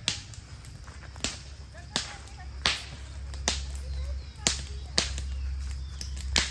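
A series of sharp cracking strikes, about eight of them at uneven gaps of roughly a second, over a steady low rumble.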